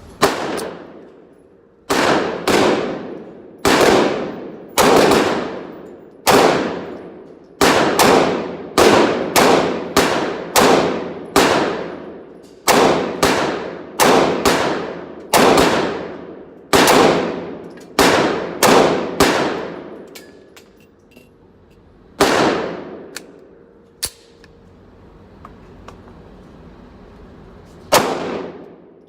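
9mm handgun shots: a long string of single shots at about one or two a second, each ringing off briefly. After a pause of a couple of seconds, two more shots follow.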